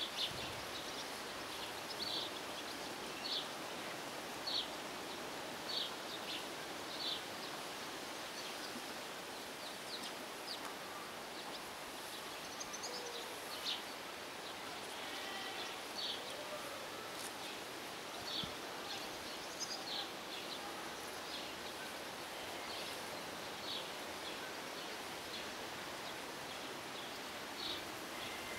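A bird chirping over and over, short high notes about once a second, over a steady hum of outdoor background noise.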